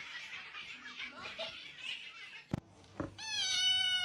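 A domestic cat giving one long meow that starts about three seconds in and drops slightly in pitch at its end. Before it comes a rustling noise and then a single sharp click.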